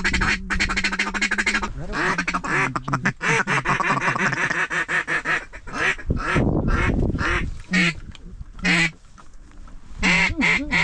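Duck calls blown in loud runs of quacks and fast chattering feeding calls, thinning to a few single quacks about eight seconds in before picking up again.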